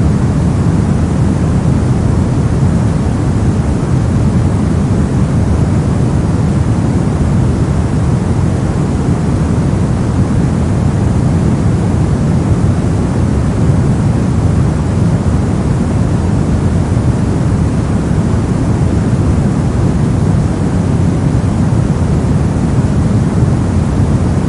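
A steady, unbroken noise track of the kind played as white noise, deep-sounding with most of its weight in the low end, never changing in level or character.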